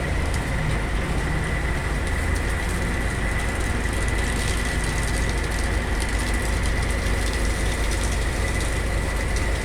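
Heavy truck diesel engine running steadily, with a steady high-pitched whine over it.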